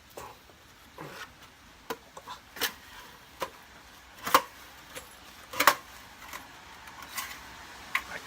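Thin metal chimney sheet of a folding camp stove being spread out and handled by hand: a string of irregular sharp metallic clicks and taps, the loudest two in the middle.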